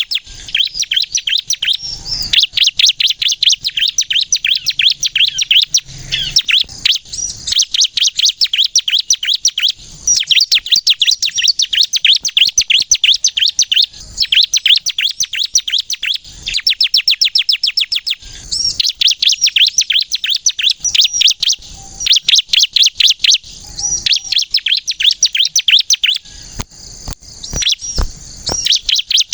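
Ciblek (bar-winged prinia) singing vigorously: long runs of rapid, sharp, high-pitched notes fired off many times a second, broken by short pauses.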